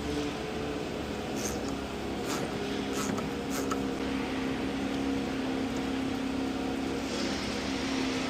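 A steady mechanical hum at several fixed low pitches, with a few light clicks in the first few seconds.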